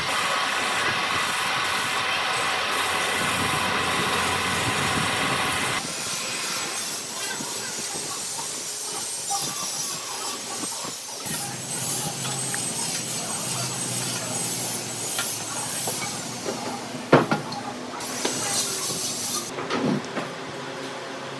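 Wood being worked by a power tool, most likely a turning tool on a wood lathe: a steady hiss for about six seconds, then an abrupt change to quieter, uneven working and handling sounds, with a sharp knock near the end.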